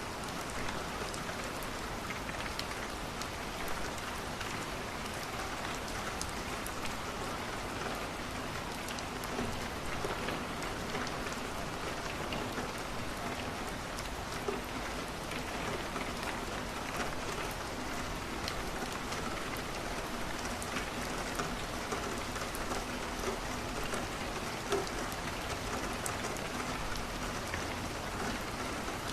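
Steady rain on a window, with a wood fire crackling in a fireplace: scattered small pops and clicks over the even hiss, a couple of them sharper than the rest.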